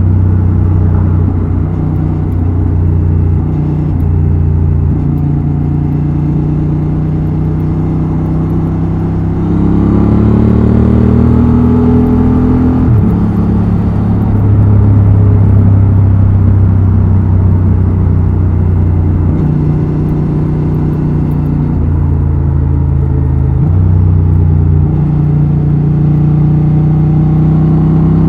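Honda Transalp XL750's 755 cc parallel-twin engine and exhaust under way. It runs at a steady speed, rises in revs from about ten seconds in, drops sharply at a gear change around thirteen seconds, and shifts engine speed a few more times later on.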